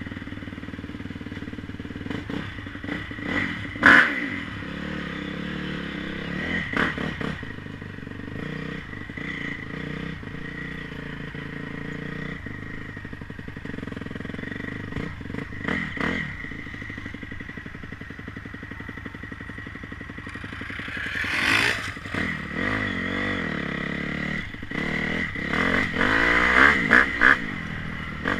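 Motocross motorcycle engines running, with repeated short bursts of revving; the sharpest about four seconds in, and a longer swell with rising and falling pitch a little over twenty seconds in.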